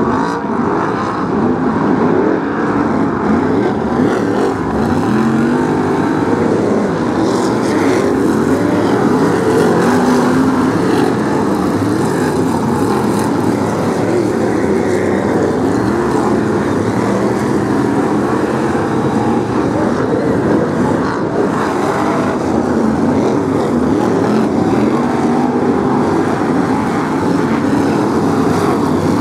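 A pack of BriSCA F1 stock cars racing, their V8 engines running loud and continuously, many at once, with pitches rising and falling as they rev through the corners.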